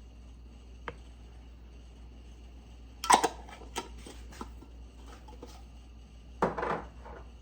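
Kitchen utensils and containers clinking and clattering while spices are measured into a bowl: a light click, then two short, louder clatters about three seconds apart with a few small ticks between them, over a faint steady hum.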